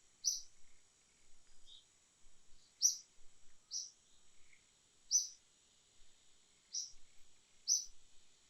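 A bird giving short high chirps about once a second at uneven spacing, over a steady high insect drone.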